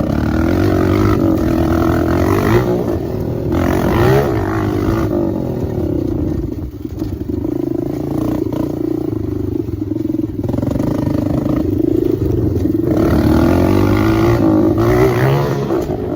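Dirt bike engine with its exhaust baffle removed, running pretty loud and revving up and down repeatedly under changing throttle.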